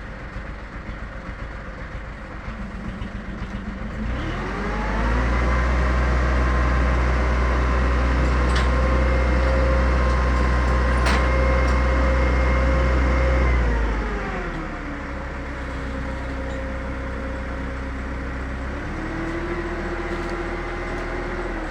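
An engine revs up, holds a steady high speed for about nine seconds, then drops back to a lower speed and rises slightly again near the end.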